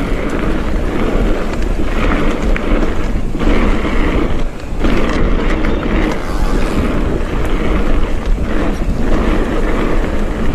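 A mountain bike being ridden down a forest trail, its tyres and frame noise mixed with wind buffeting the microphone. The noise is steady and dense, with a brief dip about four and a half seconds in.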